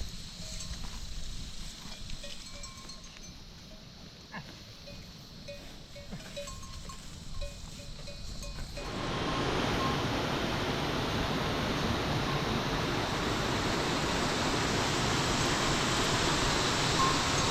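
Livestock bells on the grazing flock clinking now and then, thin and scattered. About halfway through, the sound switches abruptly to a loud, steady hiss of heavy rain, with a bell still heard faintly now and then.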